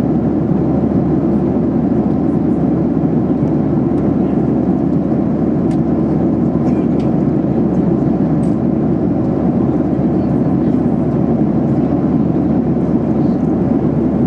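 Steady cabin noise of a Boeing 737-800 in cruise: its CFM56 engines and the airflow over the fuselage make an even, unbroken roar heard inside the cabin, with a few faint clicks.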